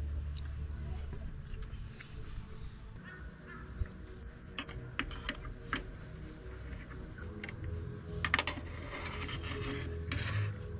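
A few light clicks and taps, the loudest a quick cluster about eight seconds in, over a steady high insect drone and soft background music.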